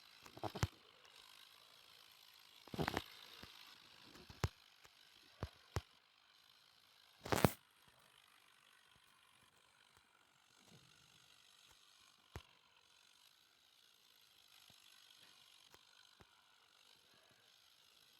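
Scattered sharp clicks and short knocks over a quiet background: a few in the first six seconds, the loudest a brief rattling burst about seven seconds in, then one more click and little else. No engine is heard running.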